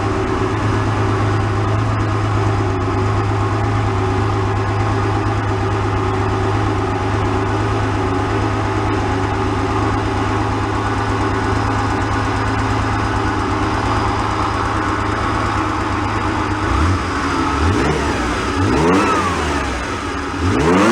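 Porsche 911's flat-six engine running steadily, then revved sharply three or four times in the last few seconds, each rev rising and falling back. The engine, flood-damaged and with running problems, now sounds much better.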